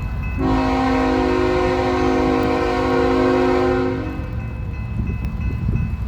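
Diesel locomotive air horn sounding one long chord of several tones that cuts off about four seconds in, over the low rumble of the passing freight train's engines and wheels.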